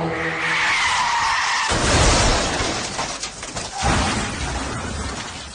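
Car tyres squealing under hard braking, then a collision about two seconds in: a sudden loud crash and a couple of seconds of crunching noise, with another knock near the end.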